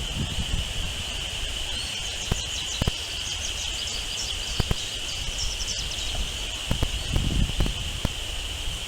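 Quick, high bird chirps in a run from about two to six seconds in, over a steady, even insect drone. Low rumbling noise and a few sharp clicks sound beside them.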